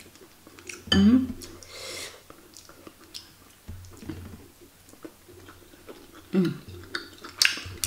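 Close-miked chewing of chewy tapioca-starch balls (baso aci) in spicy broth, with small wet mouth clicks. There are short hums about a second in and twice near the end.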